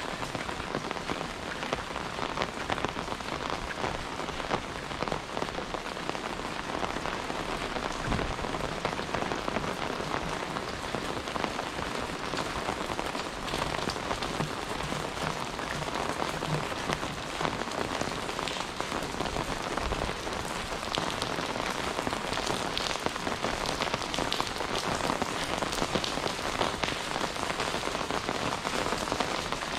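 Steady rain: a dense, even patter of countless drops striking nearby surfaces.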